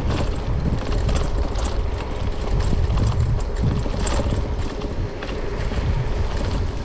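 Wind buffeting the microphone and the rumble and rattle of an electric bike rolling along a rough village road, with a faint steady hum underneath.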